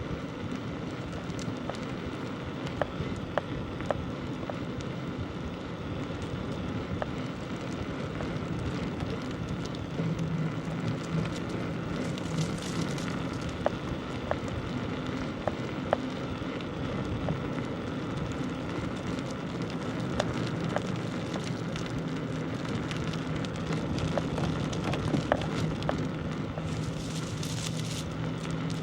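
Bicycle riding over a rough village road: continuous tyre and road noise with many small crackles and rattles, and a steady low hum joining about ten seconds in.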